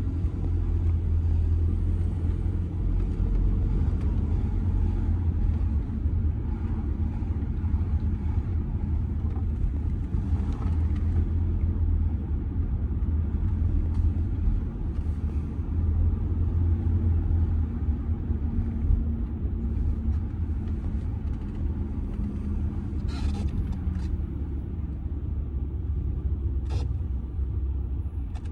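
Audi A6 C6's 2.0 TDI four-cylinder diesel and its tyres making a steady low rumble while driving in town, easing off slightly near the end. A few short, sharp clicks come in the last third.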